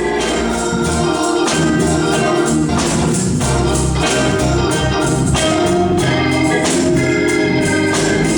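Gospel church music led by an organ playing sustained chords, with percussion hits throughout.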